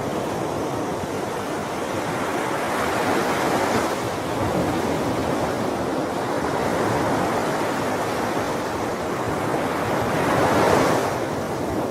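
Sea waves washing onto a shore in a steady rush, swelling and easing, with one stronger surge near the end.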